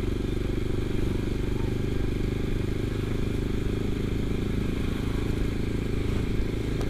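Kawasaki Ninja 250 FI parallel-twin engine running at a steady cruise, the engine note holding even.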